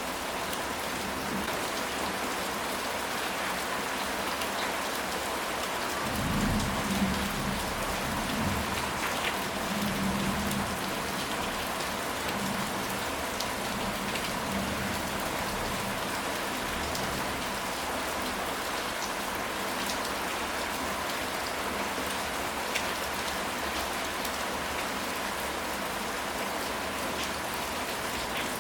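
Steady rain falling on a surface, a dense hiss of drops. A low rumble of thunder comes in about six seconds in and fades out by about eleven seconds.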